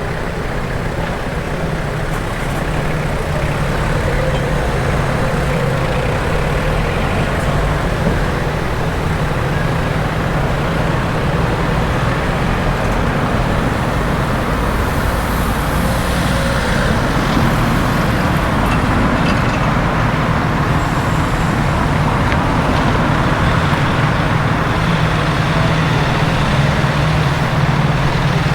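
A large engine idling steadily with a constant low hum, over general street traffic noise.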